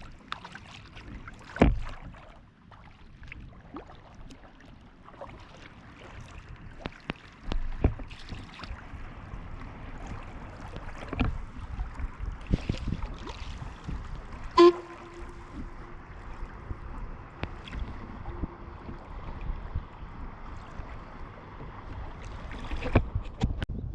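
Water lapping and sloshing around a kayak on a loch, with scattered knocks on the hull, one near the middle ringing briefly. Wind picks up on the microphone near the end.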